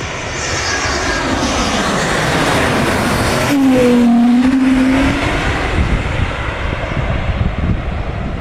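Jet airliner passing low overhead. The engine noise builds, peaks about four seconds in with a whine that drops in pitch as the plane goes by, then slowly fades.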